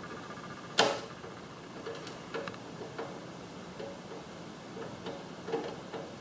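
Hands working on a garage door opener's plastic housing and parts: a sharp click about a second in, then scattered light clicks and taps.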